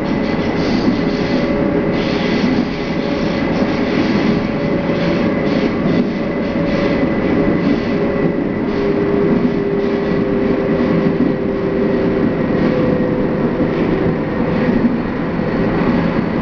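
Nagoya Municipal Subway Tsurumai Line train running at speed between stations: a steady rumble of steel wheels on rail with a motor hum, and irregular clicks as the wheels pass over rail joints.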